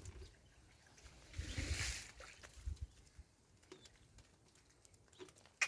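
Water splashing and sloshing with a few dull knocks, a longer splash about a second and a half in, and one sharp knock near the end.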